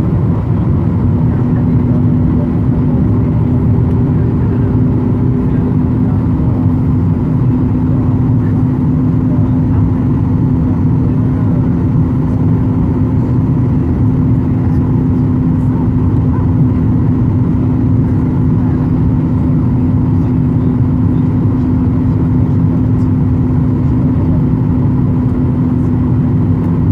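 Jet airliner cabin noise in flight: a steady low rumble of engine and airflow with a constant hum, unchanging throughout.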